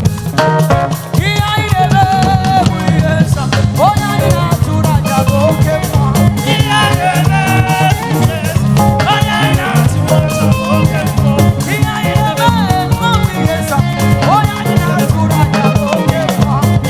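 Live praise band playing an upbeat, steady groove on drum kit, bass and guitar, with a voice singing over it.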